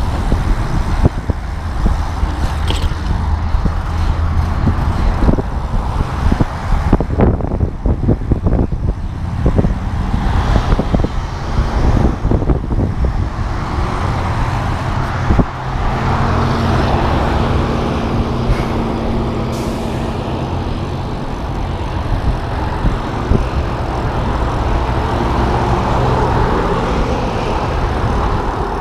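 Road traffic noise of cars and trucks heard close by from a moving bicycle: engines running and tyres on the road. Irregular knocks and rumbles come through in the first half, and a steadier engine hum in the second half.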